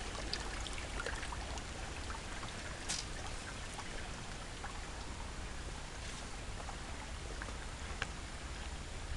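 Running water trickling and splashing steadily, with scattered small ticks, a sharper one about three seconds in, over a low rumble.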